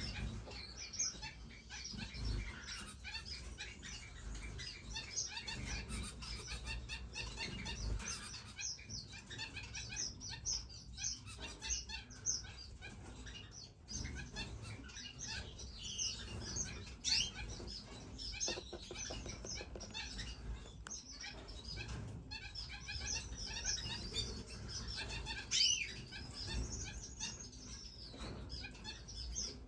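Many small captive finches chirping and twittering together in a dense chorus of short high calls, with occasional soft low thumps.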